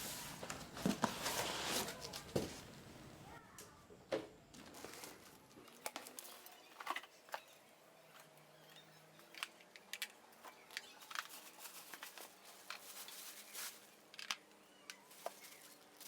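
Handling noises: crinkling and rustling for the first few seconds, then scattered light clicks and knocks.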